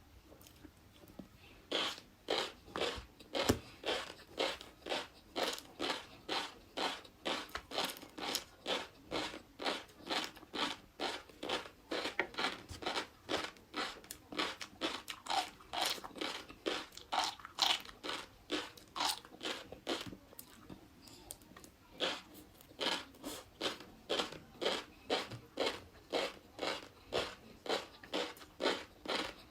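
Close-miked chewing of crunchy flying fish roe, in steady crisp crunches at about two a second. The chewing pauses briefly twice: once just after the start and again about two-thirds of the way through.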